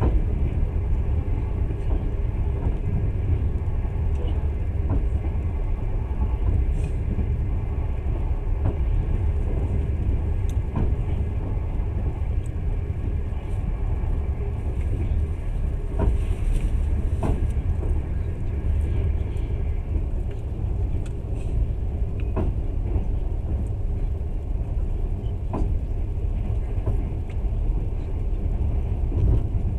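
Passenger train running steadily, heard from inside the carriage: a constant low rumble of wheels on rails, with occasional short knocks and clicks from the carriage.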